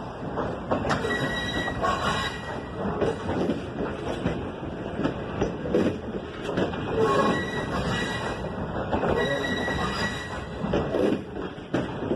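Passenger train rolling into a station: the cars rumble and clatter over the rails, with short high wheel squeals coming and going.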